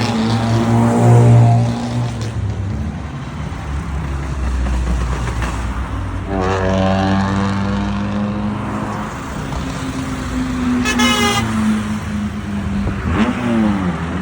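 Modified cars' engines and loud aftermarket exhausts revving as the cars accelerate, the pitch rising twice and dropping near the end. A car horn toots briefly about eleven seconds in.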